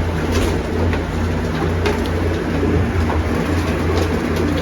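A loft full of racing pigeons cooing together over a steady low hum.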